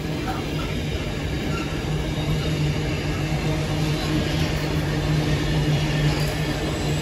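A train running through the station, a steady low hum over rolling noise that grows slightly louder across the few seconds.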